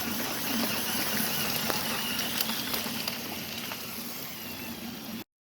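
Steady hiss of rain and a rain-swollen stream, with scattered patters of drops. It cuts off abruptly about five seconds in.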